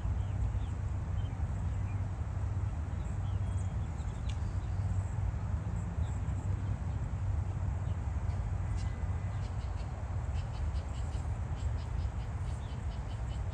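Outdoor ambience: a steady low rumble with faint, high, scattered chirps, and a quick run of evenly spaced ticks over the last few seconds.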